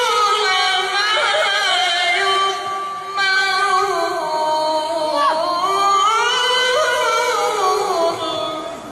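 A qari reciting the Qur'an in melodic tilawah style, holding long, high, ornamented notes in a single breath, with a slide down in pitch about halfway through.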